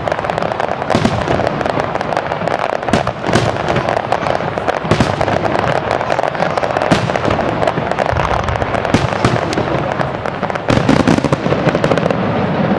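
Fireworks display: a dense barrage of aerial shell bursts, one after another, over continuous crackling.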